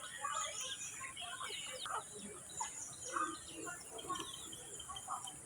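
Several parrots chattering, with many short overlapping chirps and squawks.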